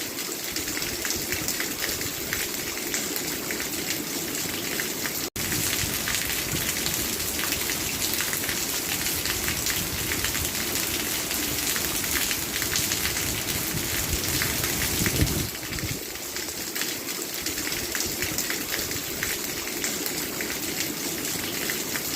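Steady rain falling, a dense even patter, with a momentary cut-out about five seconds in.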